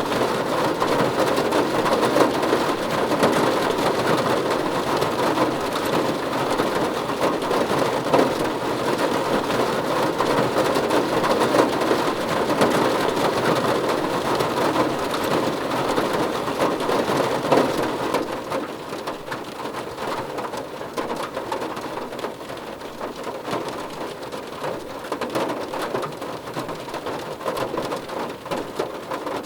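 Heavy rain falling on a car roof, a dense steady patter that eases off noticeably about two-thirds of the way through.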